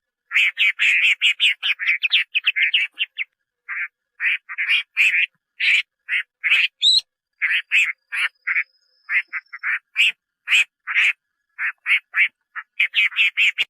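Chinese hwamei (melodious laughingthrush) calling: runs of short, coarse notes, about five or six a second, broken by brief pauses, with one higher rising note about seven seconds in.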